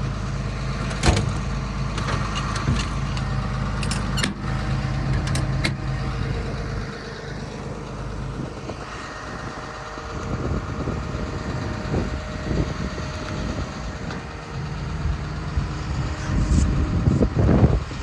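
Komatsu PC210LC-10 excavator's diesel engine idling steadily, with a few sharp clicks in the first half. Later the steady engine tone gives way to uneven rumbling noise.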